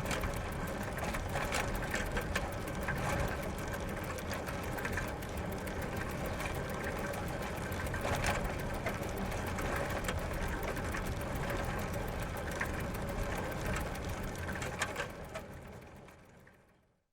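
Bicycle ridden on gravel: a rapid, steady rattle and crunching from the tyres and drivetrain over a low traffic rumble, fading out near the end.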